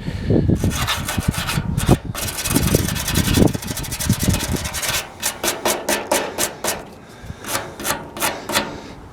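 Hand scrubbing strokes on a sheet-steel door panel over a freshly soldered hole, fast and continuous at first, then slowing to separate strokes about two or three a second for the last few seconds.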